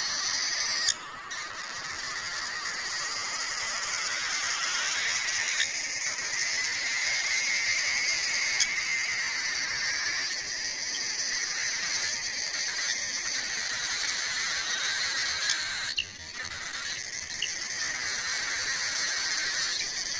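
A flock of parakeets in an aviary chattering continuously, many birds calling at once, with a few sharp clicks.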